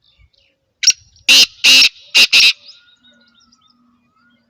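Black francolin calling: a short opening note followed by four loud, harsh, grating notes in quick succession, the whole phrase lasting about a second and a half.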